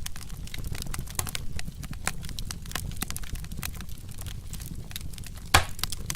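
Wood fire crackling: scattered sharp snaps and pops over a steady low rumble, with one louder pop near the end.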